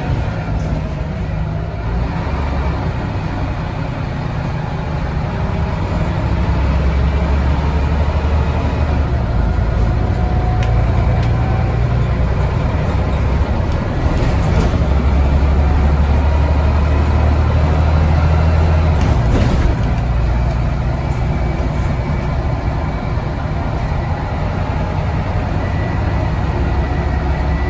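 Scania N94UD double-decker bus engine with its ZF automatic gearbox, running under load. The low engine note shifts in steps several times and grows louder over the first few seconds.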